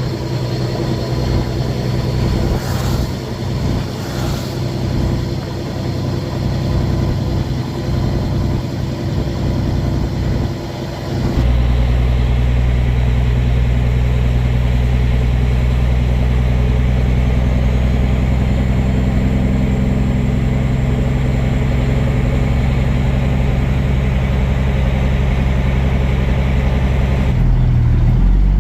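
Semi truck's diesel engine running under way, heard from inside the cab as a steady low drone. About eleven seconds in the sound changes abruptly and becomes louder and steadier.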